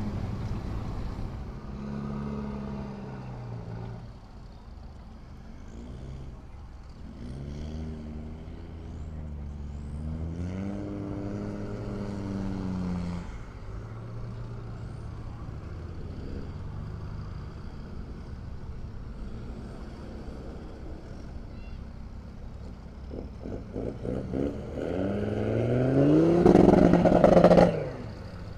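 A vehicle engine running, then revved up twice with the pitch rising: moderately about eight to twelve seconds in, and much harder and louder near the end, before the revs drop off suddenly.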